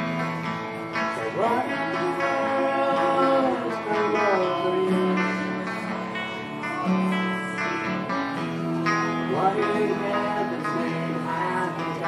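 Acoustic guitar strummed and picked as the backing of a country-folk song, with a melody line sliding up and down in pitch over it twice.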